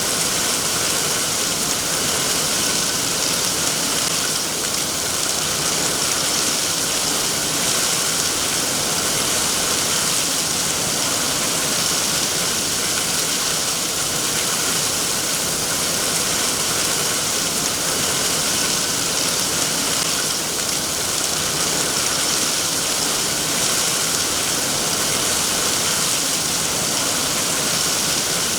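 Steady rainfall, an even hiss with no drops or pauses standing out.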